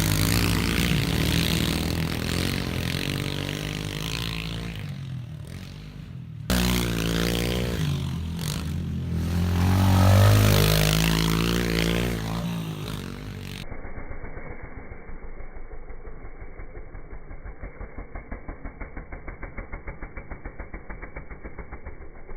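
A pit bike's small single-cylinder engine running and revving as the bike is ridden; it falls away, then after a sudden cut rises to a peak about ten seconds in. In the last third the sound turns muffled and becomes a fast, even pulsing.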